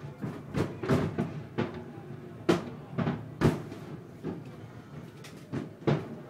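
Fireworks exploding: a string of sharp bangs and cracks at irregular intervals, each with a short echo, the loudest about two and a half to three and a half seconds in and again near the end.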